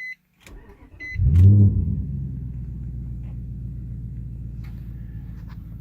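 Infiniti FX45's 4.5-litre V8 with an Invidia aftermarket exhaust starting up, heard from inside the cabin with the windows up. Two short beeps and a brief crank, then the engine catches about a second and a half in with a quick rev flare and settles into a steady, low idle.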